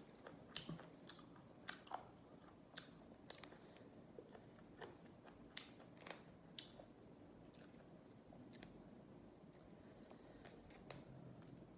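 Close-miked chewing of raw vegetables, with irregular sharp crunches as crisp pieces are bitten and chewed. The crunches are most frequent in the first half.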